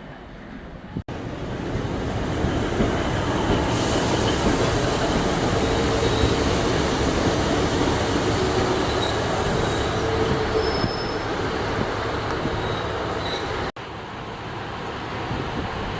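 Train running along the track through a station: a loud, steady rumble and rush with a few brief high-pitched wheel squeals. The sound starts abruptly about a second in and drops away suddenly near the end.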